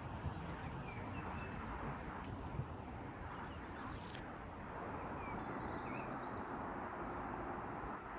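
A steady low outdoor rumble, with a few faint bird chirps over it and a single sharp click about four seconds in.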